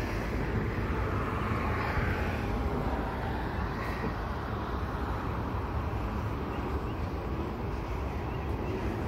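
Double-stack container train rolling past on its well cars: a steady low noise of steel wheels on the rails.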